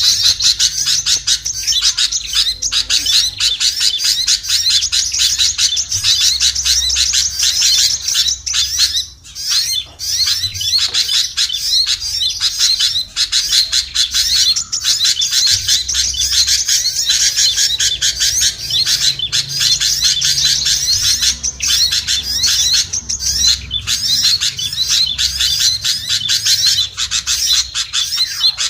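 Bird-lure recording of many small songbirds chirping and twittering at once in a dense, unbroken chatter, with a brief lull about nine seconds in.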